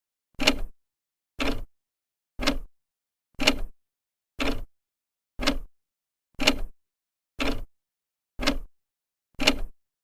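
Old clock's second hand ticking steadily, one tick a second; each tick is a short cluster of a few quick clicks.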